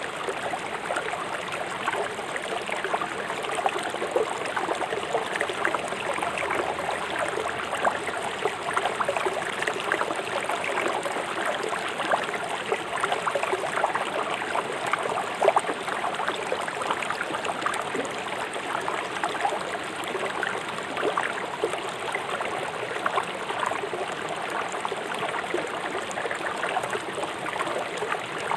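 Fast-flowing river rushing over rocks: a steady, even wash of water with lots of small splashes and gurgles.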